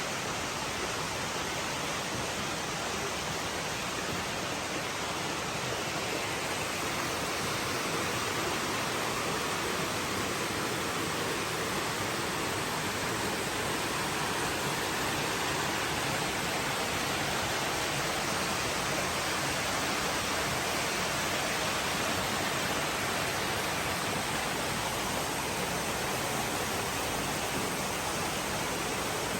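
Steady rush of water flowing into koi ponds from a large pond filtration system, even and unchanging.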